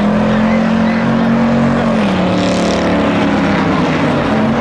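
Pickup truck engines running in a figure-8 race, one engine note holding steady and then dropping in pitch about two seconds in.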